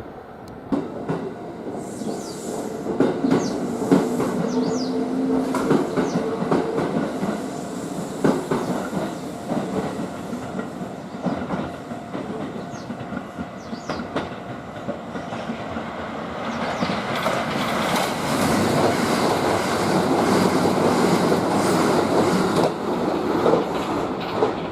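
Kintetsu limited express electric train running through a station, its wheels clacking over the rail joints. A steady two-note whine sounds for a few seconds near the start, and the running noise grows louder in the second half.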